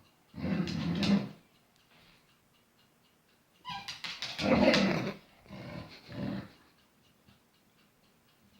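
A dog vocalising in three short bouts, the first about half a second in, the second and third close together in the middle, then quiet.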